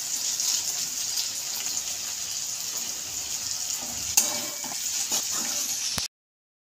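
Okra frying in oil in a steel kadhai with a steady sizzle, as coarse ground spice masala is tipped in and stirred with a metal spatula. One sharp clink of the spatula on the pan about four seconds in, and the sound cuts off suddenly about six seconds in.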